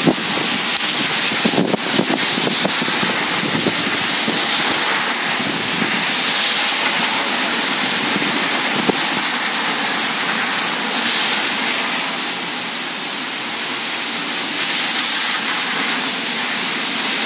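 Heavy thunderstorm rain pouring down in a steady, dense hiss, easing slightly about two-thirds of the way through before picking up again.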